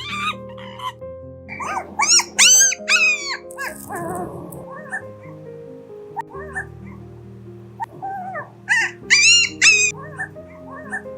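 A dog yipping in high, arching calls: a run of several about two seconds in, fainter single calls after it, and another run near the end. Background music with sustained tones plays throughout.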